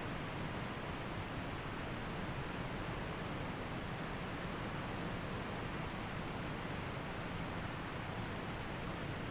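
Waterfall rushing steadily: an even, unbroken sound of falling water.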